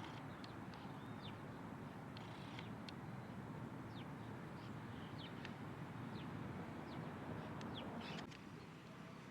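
Small birds chirping: many short, high calls scattered throughout, over a steady background rush that drops a little about eight seconds in.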